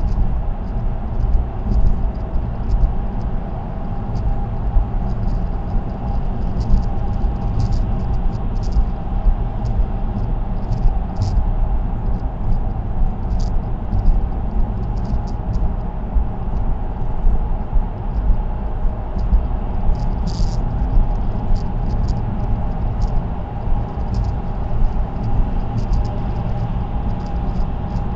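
Steady tyre and road noise of a car cruising on an expressway, heard from inside the cabin: a low rumble with a faint steady hum over it and frequent small high ticks.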